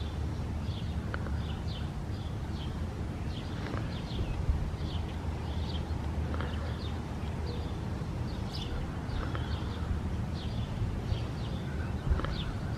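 Small birds chirping, short high chirps a few times a second, over a steady low rumble.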